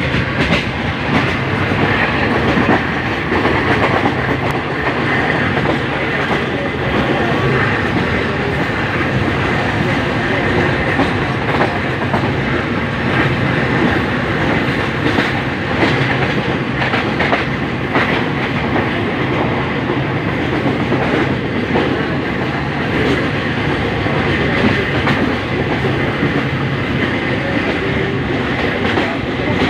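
Subak Kharam express passenger train running at speed, heard at an open carriage window: a steady loud rumble and rush of wheels on rails and air, with occasional clicks from the wheels over the track.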